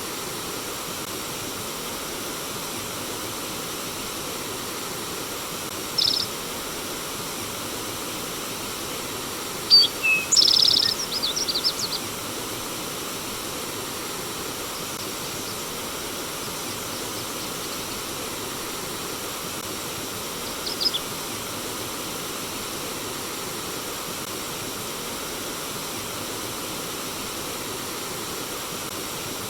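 Steady rush of flowing water. Short bird chirps cut through it about six seconds in, a quick run of chirps around ten to twelve seconds, and one more brief chirp about twenty-one seconds in.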